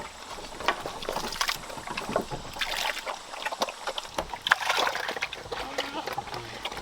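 Water sloshing and splashing in irregular, closely spaced bursts.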